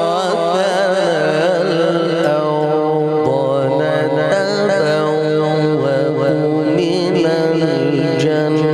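A man's voice reciting the Quran in a slow, melodic style, drawing out long notes with wavering, ornamented pitch.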